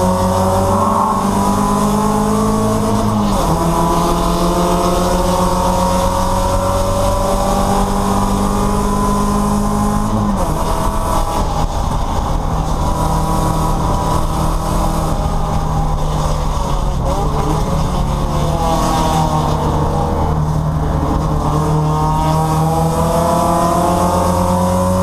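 Porsche 944 race car's four-cylinder engine heard from inside the cockpit, its pitch climbing and then dropping sharply as it shifts up, about three seconds and ten seconds in. It then runs lower and unevenly for several seconds before climbing again near the end.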